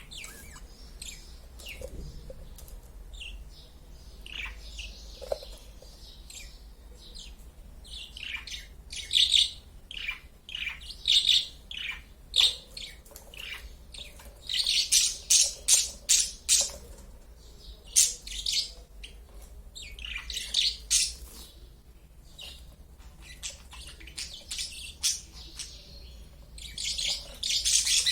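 Small birds chirping: a busy run of short, high, repeated calls that come in clusters, thickest around the middle and again near the end.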